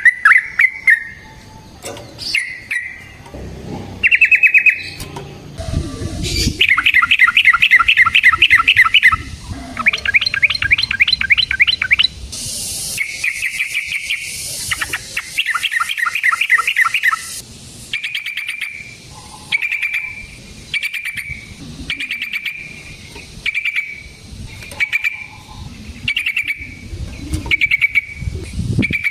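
Yellow-vented bulbul (trucukan) singing: loud bubbling phrases with fast rattling trills in the first half, then short calls repeated about once a second.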